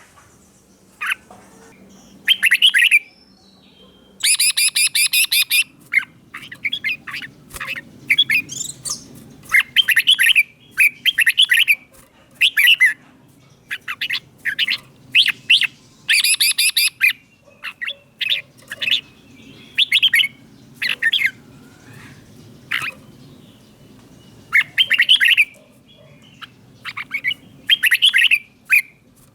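Red-whiskered bulbuls singing: a steady run of short, bright, repeated phrases, with a few harsh, buzzy notes mixed in, about four seconds in and again about sixteen seconds in.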